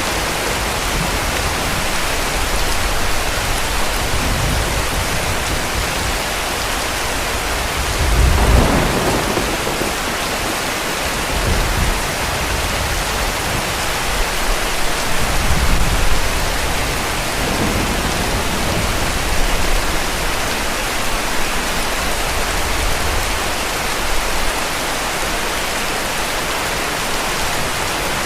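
Heavy, steady rain with distant thunder rumbling several times. The strongest roll comes about eight seconds in, and fainter rumbles follow near the middle.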